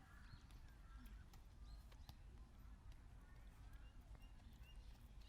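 Faint outdoor street ambience: a low steady rumble with scattered distant voices and a few sharp clicks.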